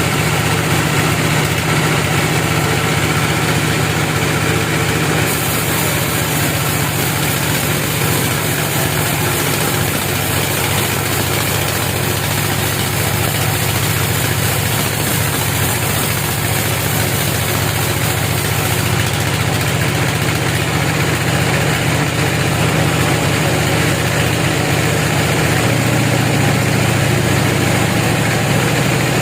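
A wood-cutting machine's engine running steadily with a strong low hum. The hum shifts lower about 26 seconds in.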